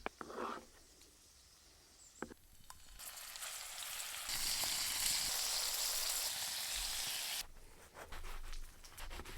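Food sizzling in a hot pan over an open fire. The hiss builds about three seconds in, grows louder about a second later and cuts off suddenly, with a few light clicks and knocks before and after it.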